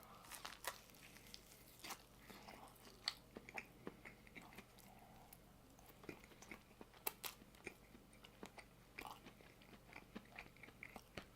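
Faint, close-up chewing of a barbecue chicken sandwich: soft, irregular mouth clicks.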